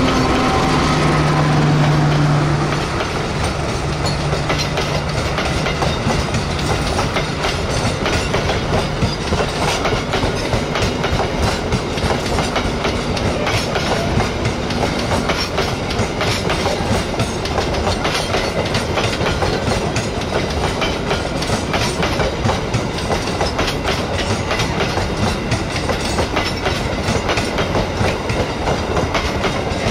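Passenger train passing close at speed behind a CC 206 diesel-electric locomotive. The end of a horn blast about a second in and the locomotive's engine in the first couple of seconds give way to a long, steady clickety-clack of the coaches' wheels over the rail joints.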